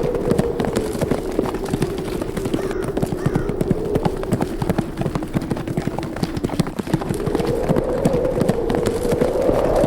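Horses galloping, a dense, quick clatter of hoofbeats, over a howling wind whose pitch sinks and then rises again near the end.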